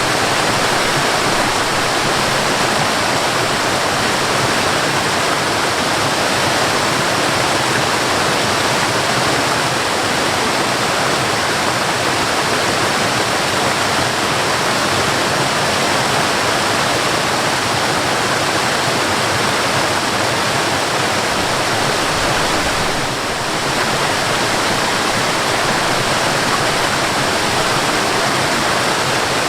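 Waterfall rushing in a steady, dense roar of falling water. The sound dips briefly about three-quarters of the way through.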